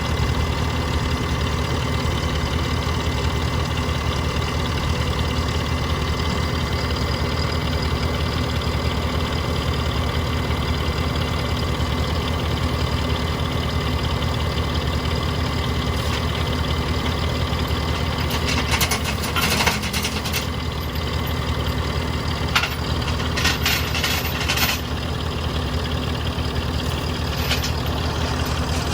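An engine idling steadily. From about two-thirds of the way in come several sharp knocks or clanks, in clusters.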